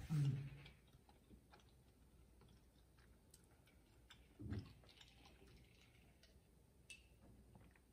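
Faint mouth sounds of a person chewing tteokbokki rice cakes and glass noodles: scattered soft clicks, a short low hum right at the start, and another short low sound about halfway.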